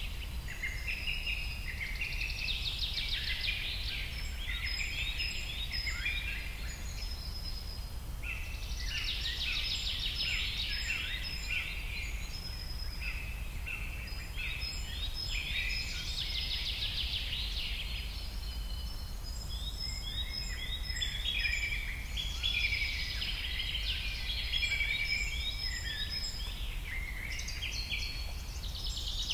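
Many birds chirping and singing in overlapping short phrases, over a steady low rumble.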